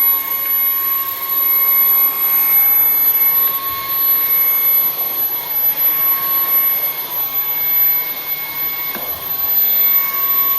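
Bissell CleanView XR Pet 300W cordless stick vacuum (3797V) running at maximum power, a steady whine over its airflow noise as it picks up sawdust.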